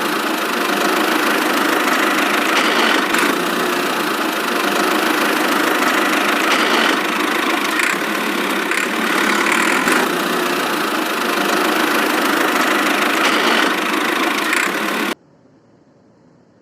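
A small engine running steadily at a constant speed, with a faint rattle, cutting off abruptly near the end.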